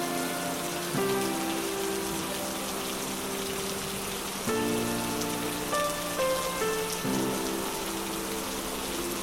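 Steady rain falling, an even hiss of drops throughout. Soft sustained music chords play underneath, changing to new chords about a second in, midway, and again near the end.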